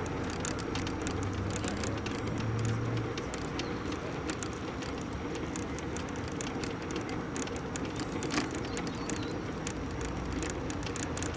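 Electric mobility scooter running along a riverside path: a steady motor hum and rumble with scattered light clicks, and the hum swells briefly about two seconds in.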